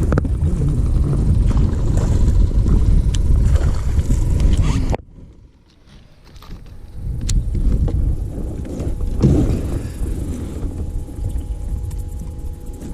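Low wind rumble buffeting the microphone, which drops away suddenly about five seconds in, followed by a quieter noise that swells and fades again.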